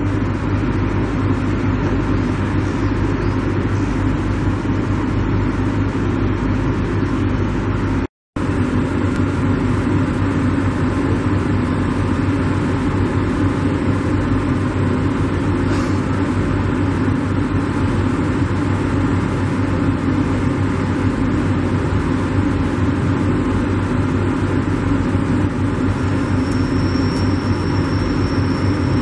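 Steady, loud engine rumble that stays even throughout, cutting out completely for a moment about eight seconds in. A thin, high, steady whine joins it near the end.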